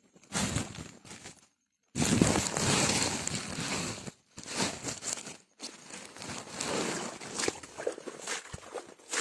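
Footsteps and rustling through wet vegetation and mud, in irregular noisy bursts broken by a few abrupt cuts to silence.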